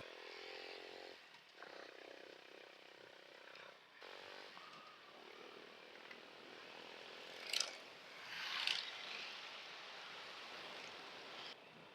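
Motorcycle engine running while riding, under a haze of wind and road noise, with two short louder whooshes about two-thirds of the way through.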